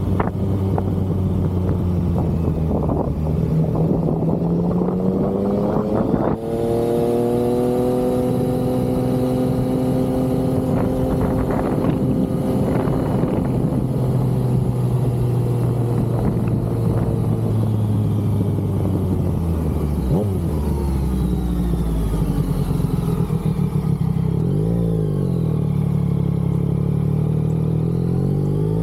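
Yamaha XSR900's three-cylinder engine under way, pulling up through the revs for about six seconds before a gear change, then running on steadily in the higher gear. Later it eases off, revs up and down a few times and climbs again near the end, with wind rush underneath.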